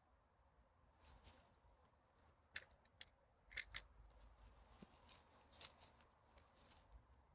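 Litter being handled on the forest floor: quiet rustling broken by sharp clicks and snaps, the loudest about two and a half seconds in, a quick pair a second later and another near the middle.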